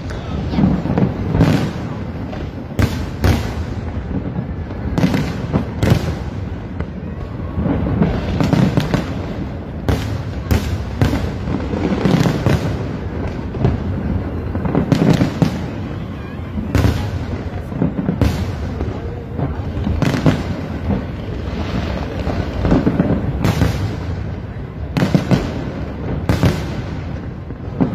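Aerial firework shells bursting in a display: sharp bangs every second or two, sometimes in quick pairs, over a continuous low rumble of further bursts.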